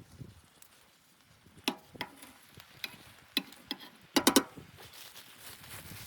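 A series of sharp clicks and knocks at irregular spacing, with a quick cluster of three louder knocks about four seconds in, then a faint hiss.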